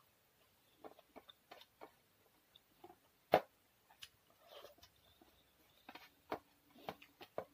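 Mouth sounds of someone eating rice by hand: soft chewing, lip smacks and wet clicks at irregular intervals, with one sharper click a little before the middle.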